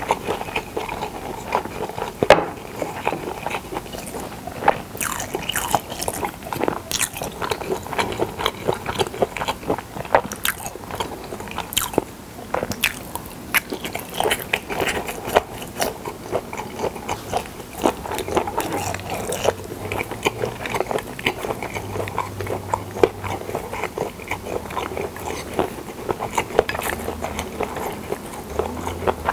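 Close-miked chewing of pressed boiled pork (pyeonyuk) and seasoned dried radish strips: a steady run of crunching and chewing mouth sounds with many sharp clicks.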